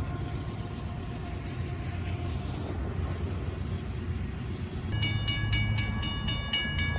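Diesel freight train approaching with a steady low rumble. About five seconds in, a grade-crossing bell starts ringing rapidly, about four strokes a second.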